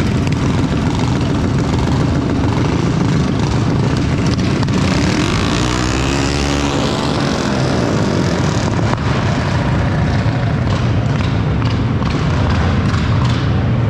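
Mini bike engines running hard, with one engine's pitch rising and then falling about halfway through.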